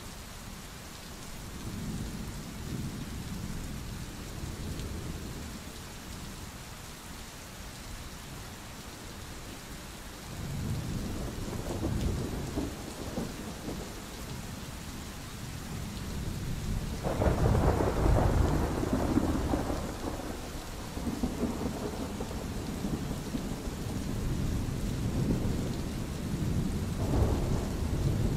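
Steady rain with thunder rolling several times in low rumbles that swell and fade, the loudest a little past the middle.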